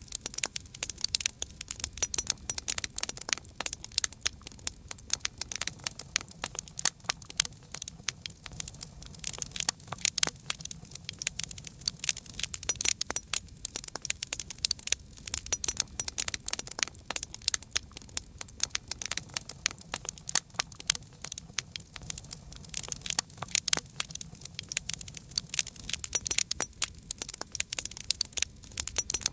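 Wood campfire crackling, with many sharp pops and snaps coming fast and irregularly over a soft low rumble of the flames.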